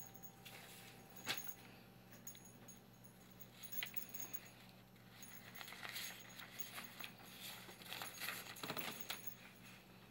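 A cockatiel's small metal toy bell jingling and clinking irregularly as the bird knocks it about, with one sharp clink about a second in and a busier run of jingling in the second half.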